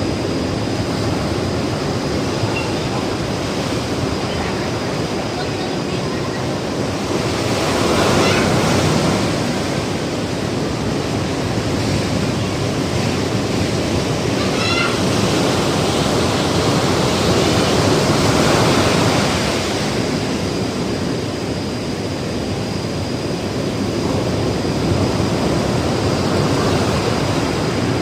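Ocean surf breaking on the shore: a continuous rush of water that swells louder twice as waves come in.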